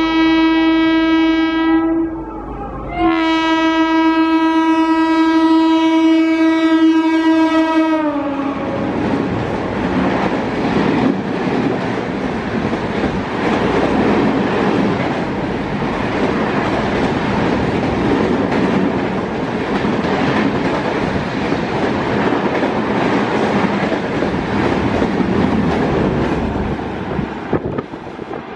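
Indian Railways locomotive horn sounding a long blast, broken briefly about two seconds in. Its pitch drops around eight seconds in as the locomotive passes close by. Then comes the loud rush and clickety-clack of its coaches going past for about twenty seconds.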